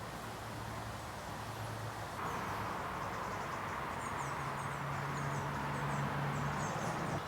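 Outdoor background noise over a steady low hum; the background shifts abruptly about two seconds in. From about four seconds in, small birds chirp in quick, high runs.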